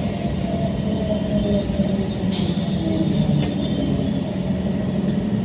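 Moving passenger train heard from inside the carriage: a steady rumble of wheels on the track, with faint squealing tones from the wheels. There is one sharp click about two seconds in.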